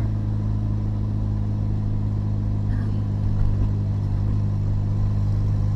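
Turbocharged VW Gol's engine droning at a steady pitch while the car cruises, heard from inside the cabin along with road noise.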